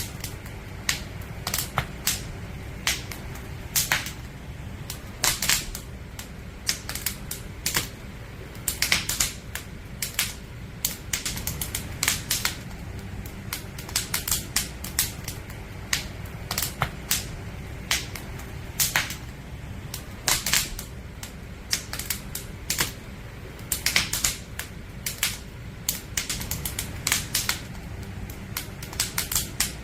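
Wood fire crackling, with irregular sharp pops and snaps of burning logs, a few to several a second, over a low steady rumble of the flames.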